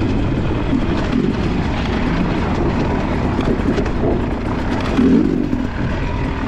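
Enduro dirt bike engine running steadily under way on a trail ride, with a brief surge about five seconds in.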